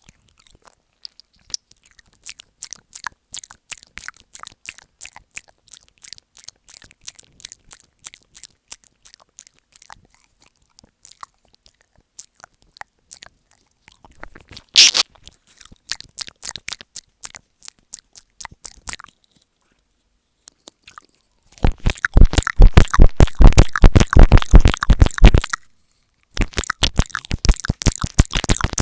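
ASMR mouth sounds into an earphone microphone: scattered wet clicks and smacks at first, then from about 22 s in the mouth works right on the microphone ('mic eating'), giving dense, loud, crackling bursts with deep thumps, broken by a short pause about 26 s in.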